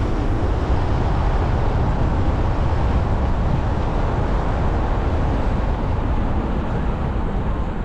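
A vehicle driving along: steady engine and road noise.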